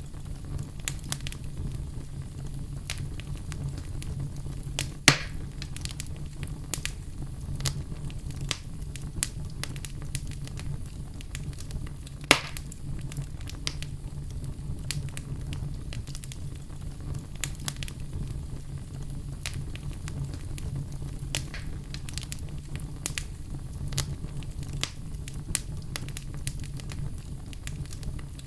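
Wood fire burning in a fireplace, crackling steadily over a low rumble, with two louder pops about five and twelve seconds in.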